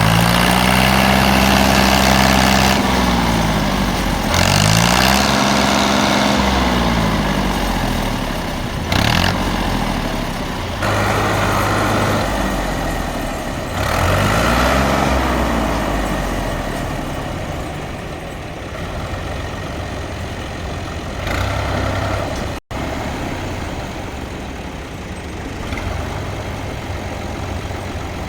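Tractor engine revving up and easing back off three times in long swells, then running more steadily.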